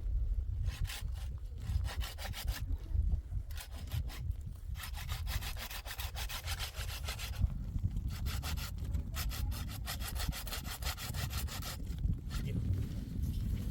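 Hand saw cutting wood in fast back-and-forth strokes, in three long bouts with short pauses between them.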